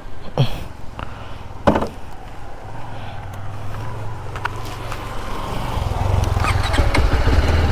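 A few knocks, then a motorcycle engine running at idle with a steady low hum; near the end its note steps up and it grows louder.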